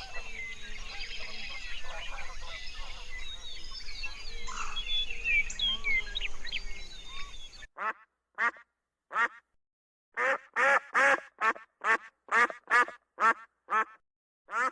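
Outdoor background noise with small birds chirping, then, after a sudden cut about eight seconds in, a run of short pitched animal calls repeated one after another against a silent background.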